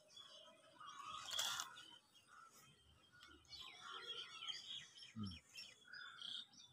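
Small birds chirping faintly and repeatedly, with a short burst of noise about a second and a half in.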